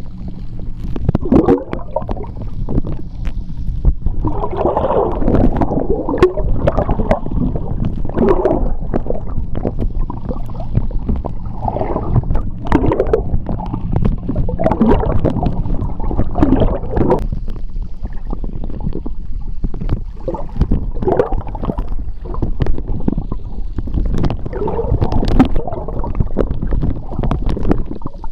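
Underwater sound of moving seawater in a tidal strait: a steady low rumble, with bubbles gurgling up again and again and scattered sharp clicks throughout.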